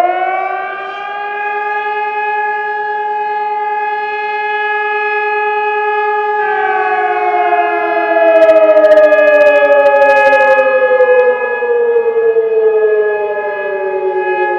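Civil defence sirens sounding the continuous test tone of a Czech siren test. One siren rises to pitch and holds a steady tone. About six seconds in, a second siren tone begins falling slowly in pitch as it winds down.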